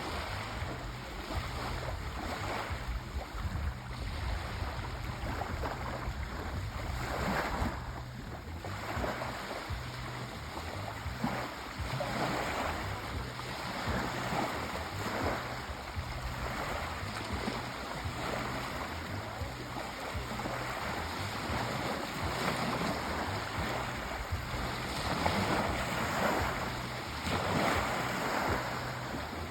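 Sea waves washing onto a shore, a continuous surf that swells and eases every few seconds.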